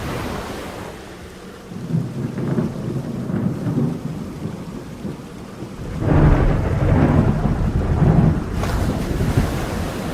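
Rain falling through a thunderstorm, with rolling thunder: a rumble about two seconds in and a louder, longer one from about six seconds.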